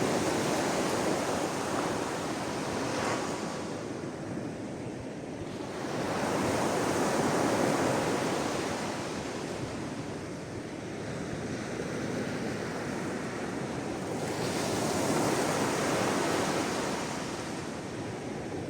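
Sea waves washing onto the shore, each surge swelling and fading about every seven or eight seconds over a steady rush of water.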